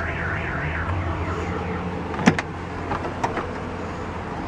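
A small electric motor hums for about a second and a half, then stops with a sharp click, followed by a few lighter clicks. A fast repeating warbling tone fades out in the first second.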